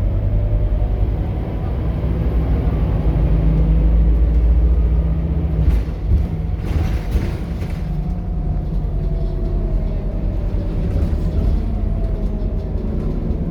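Scania K230UB bus's five-cylinder diesel engine and ZF automatic gearbox under way: the engine pulls hard and builds for the first few seconds, then eases off about six seconds in with a few short sharp sounds. A faint whine then slowly falls in pitch as the bus runs on.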